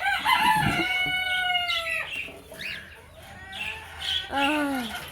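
Birds calling in an aviary: one long drawn-out call lasting about two seconds, then a shorter call that rises and falls about four seconds in.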